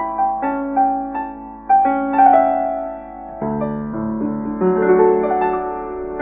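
Background piano music: a slow, gentle melody of separate notes over sustained chords, the harmony changing about three and a half seconds in.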